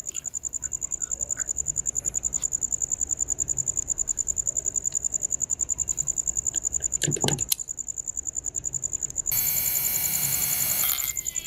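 A steady high-pitched insect trill, pulsing about ten times a second, with a couple of short knocks about seven seconds in and a louder buzzing sound with many stacked tones for the last two seconds.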